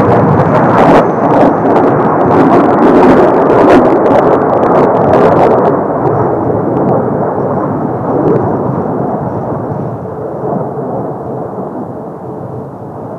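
Jet engines of a Blue Impulse formation of Kawasaki T-4 trainers passing, a loud roar with crackling in the first half that fades steadily over the second half.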